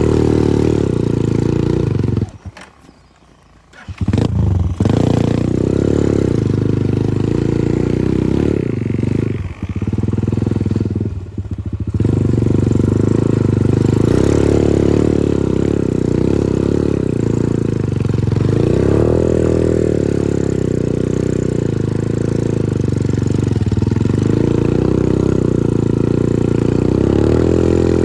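Progasi Smart Max 150 motorcycle's 150cc engine running while riding, with the revs rising and falling several times. About two seconds in the sound drops almost to nothing for a second and a half, then the engine comes back.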